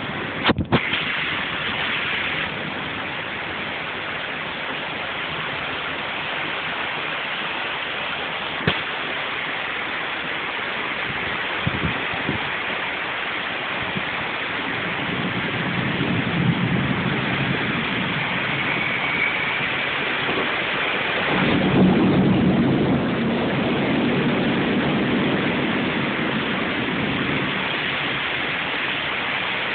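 Heavy tropical downpour: a steady hiss of rain, with low thunder rumbling up twice, the second time louder and longer. A few sharp knocks near the start.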